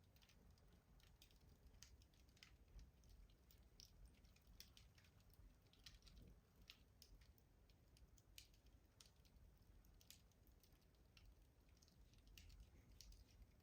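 Faint wood fire crackling in a rustic stove: small, irregular pops and snaps, several a second, over a low steady hum.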